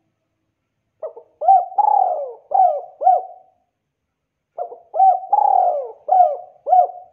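Spotted dove (tekukur) cooing: two phrases of about five notes each, with the longest note in the middle of each phrase falling in pitch. The first phrase starts about a second in, and the second follows after a pause of about a second.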